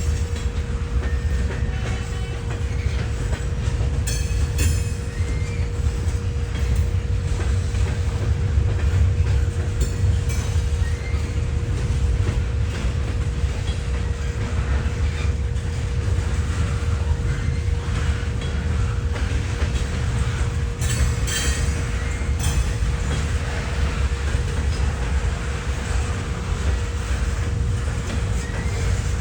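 A train rolling past with a steady low rumble and occasional wheel clicks, with a thin steady tone underneath.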